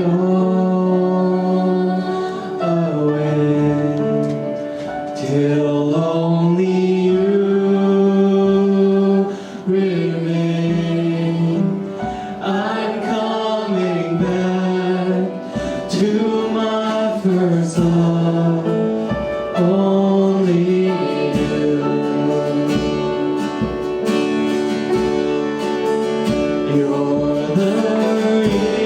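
Worship music: voices singing a gospel-style song in sustained phrases over instrumental accompaniment.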